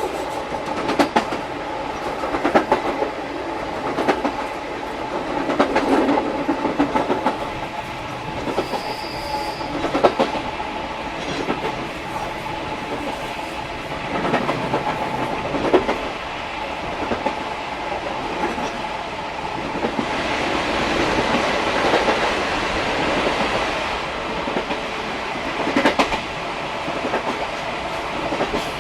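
Old-type SuHaFu 42 passenger coach heard from its car end, its wheels striking rail joints in a light clickety-clack every second or two over a steady running noise. The train is coasting downhill behind an EF58 electric locomotive, so hardly any motor sound comes through.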